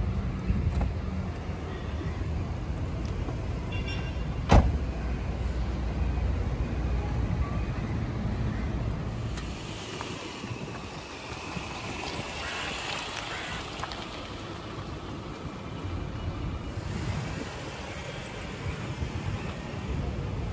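A Subaru Forester's 2.0-litre naturally aspirated flat-four boxer engine running with a steady low rumble, with a single sharp knock about four and a half seconds in. About nine seconds in the rumble drops away, leaving a higher hiss, and it comes back near the end.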